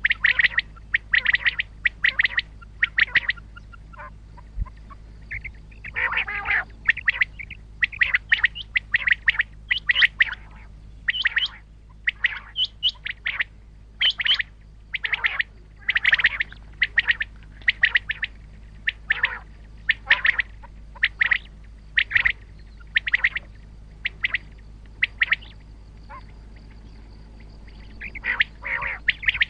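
Common quail calling over and over in short, sharp notes that come in quick runs, with a harsher, lower call about six seconds in and again near the end. A steady low hum runs underneath.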